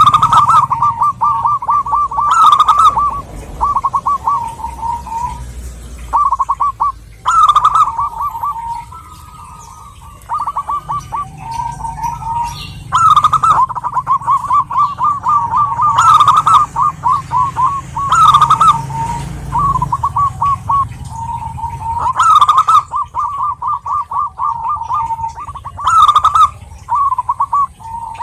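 Zebra dove (perkutut) cooing: rapid, stuttering trilled phrases repeated every couple of seconds with short pauses. A low background hum stops about two-thirds of the way in.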